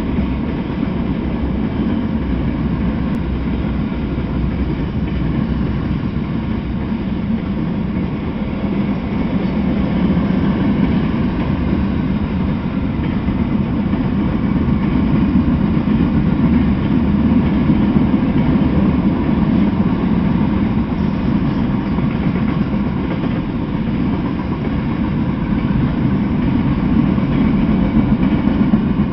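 Freight train cars (tank cars, covered hoppers and boxcars) rolling past on the track: a continuous low rumble of steel wheels on rail that swells slightly toward the middle and again near the end.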